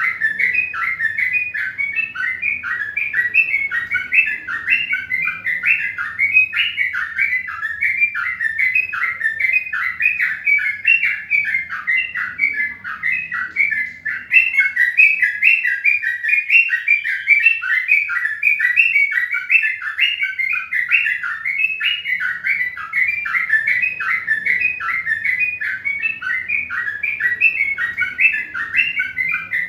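Birds chirping without a break, many short rapid chirps overlapping.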